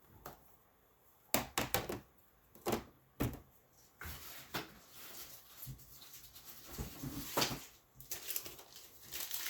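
Handling noise from hard plastic graded-comic slabs: a few sharp clacks and knocks, then about five seconds of rustling and shuffling as the next slab is taken out.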